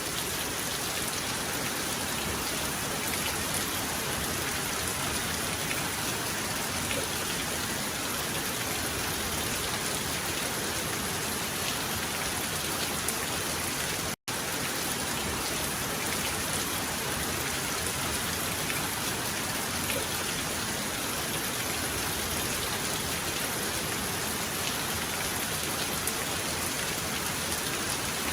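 Heavy rain falling steadily, a dense, even hiss of drops with no thunder. The sound cuts out completely for a split second about halfway through, then resumes unchanged.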